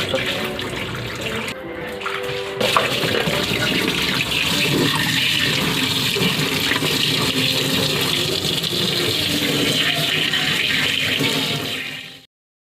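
Water rushing and splashing steadily in a washing machine tub, cutting off suddenly near the end.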